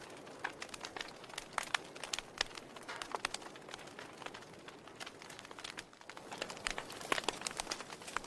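Wood fire burning in a fireplace, the firewood crackling and popping in quick, irregular snaps over a steady soft hiss.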